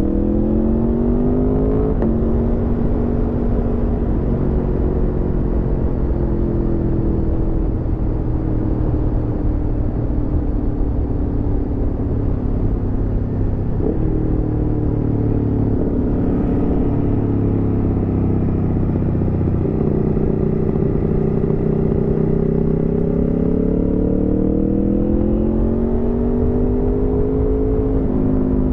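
Aprilia Tuono V4 motorcycle's V4 engine under way, with wind and road noise. Engine pitch climbs at first, then drops sharply on an upshift about two seconds in and falls slowly for a long stretch. It jumps up twice on downshifts, around halfway and two-thirds through, then climbs again under acceleration before another upshift near the end.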